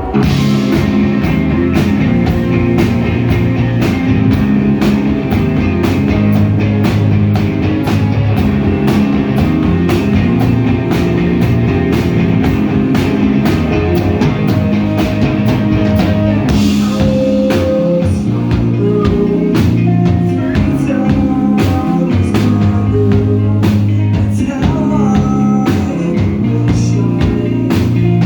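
Rock band playing live: electric guitars, bass, drums and vocals, the full band coming in loud and hard all at once, with steady drum hits throughout.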